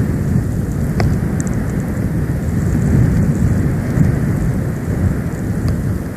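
Snowstorm wind buffeting the nest camera's outdoor microphone: a loud, steady low rumble that rises and falls, with a faint tick about a second in.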